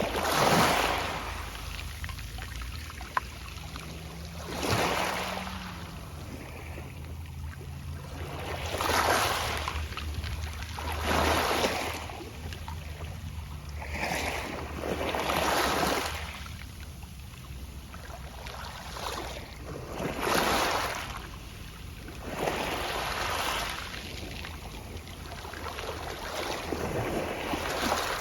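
Small sea waves washing onto a pebble beach, with pebbles rustling in the surf, a surge every two to three seconds. A faint low hum sounds briefly about four to seven seconds in, dropping slightly in pitch.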